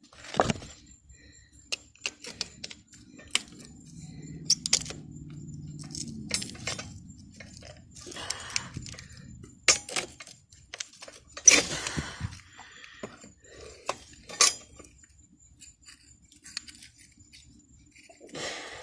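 Scattered metal clinks and knocks of hand tools, a tire bar against a wheel, during a manual tire change. A low hum runs for a few seconds near the start.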